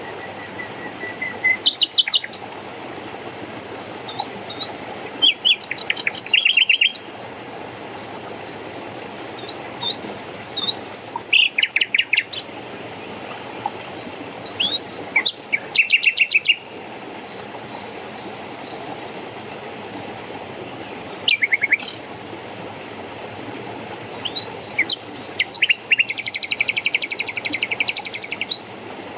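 Songbirds chirping in short bursts of quick high notes every few seconds over the steady rush of running water, ending in a rapid trill about two and a half seconds long.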